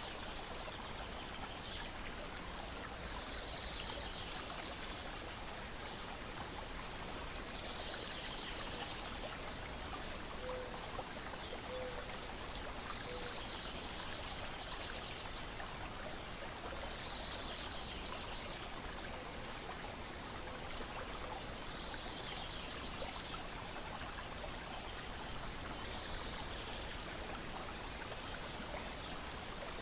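Lake water lapping against a shore and deck: a steady watery wash with a gentle swell about every four to five seconds.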